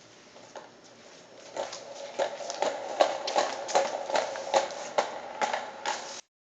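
A quick run of sharp knocks, about three a second, over a steady rustling noise, starting about a second and a half in and cutting off abruptly near the end.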